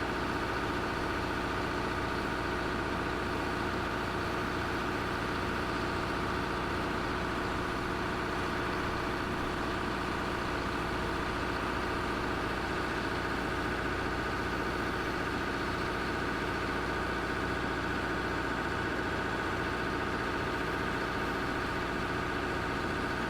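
A large engine running steadily at an even idle, with no revving, which starts and stops abruptly.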